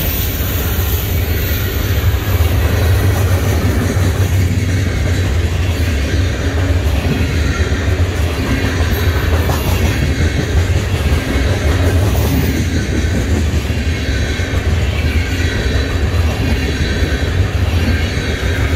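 Freight train cars, boxcars then tank cars, rolling past close by: a steady low rumble of steel wheels on the rails.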